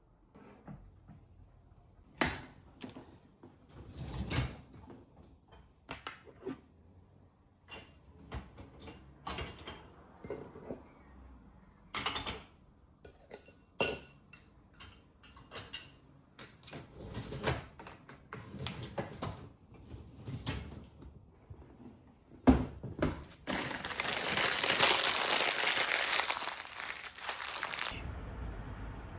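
Household handling sounds: a series of separate knocks, clicks and clinks like dishes and cupboard doors or drawers being moved. About 23 seconds in, a loud steady hiss runs for about four seconds and then cuts off suddenly.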